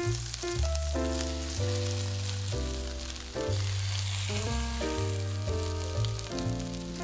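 Tuna-and-egg patties frying in olive oil in a pan, the oil sizzling steadily, with background music playing over it.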